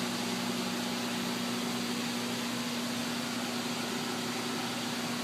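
Steady fan and ventilation hum with a low, unchanging electrical drone underneath.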